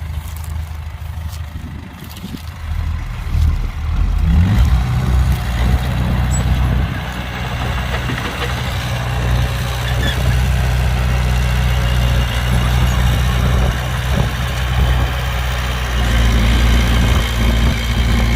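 An engine running steadily with a low hum that builds up about three to four seconds in.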